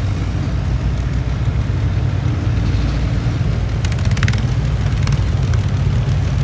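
Tractor engine running loud and steady. A short burst of rattling clicks comes about four seconds in.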